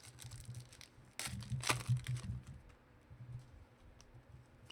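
Trading cards and pack wrappers being handled, with crinkling and rustling and a run of sharp clicks and rustles that is loudest about a second in. A low steady hum sits underneath.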